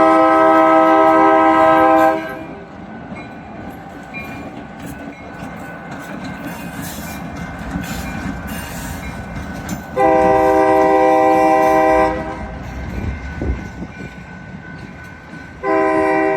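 WTJR locomotive 1008's horn sounding for a grade crossing: a long blast that ends about two seconds in, a second blast of about two seconds later on, and a third starting near the end. Between the blasts the locomotive and train run past with wheel clatter.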